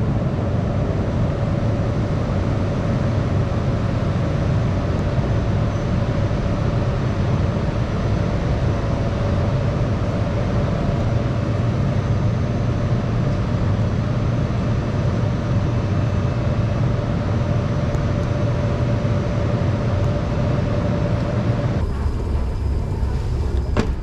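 Subway train running, with a steady loud rumble and a constant whine; the rumble and whine drop away suddenly near the end.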